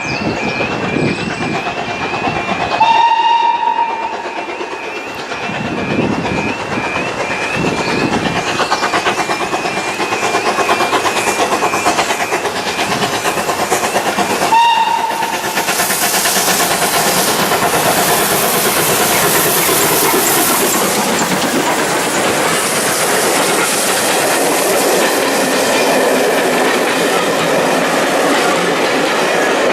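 Steam locomotive passing with its train: two short whistle blasts about twelve seconds apart, then the continuous rumble and clatter of the carriages' wheels on the rails.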